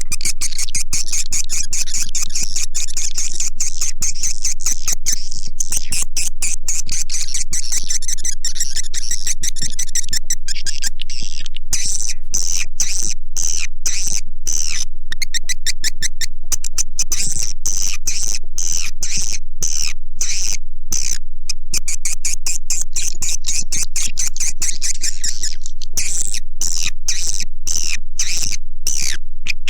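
Recorded swiftlet calls: a loud, dense twitter of rapid high-pitched chirps and clicks repeating on and on. This is a swiftlet lure sound, played in swiftlet houses to call the birds in.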